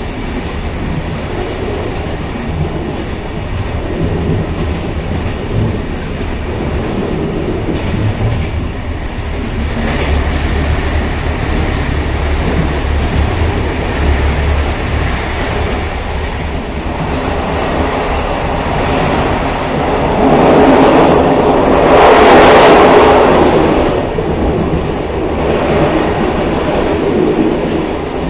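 Railcar running along the track with a continuous rumble and rattle, swelling louder for a few seconds from about twenty seconds in.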